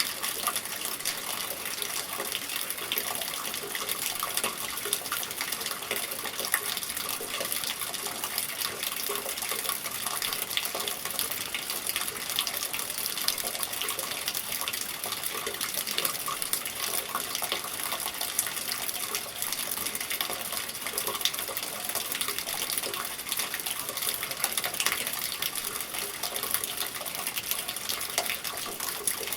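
Steady rain with water running and splashing from a gutter, a dense patter of small drop impacts over an even rush of water.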